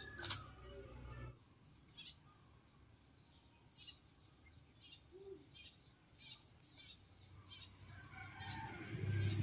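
Small birds chirping, short high calls scattered every second or so. There is a sharp click just after the start and a low hum that fades about a second in and comes back near the end.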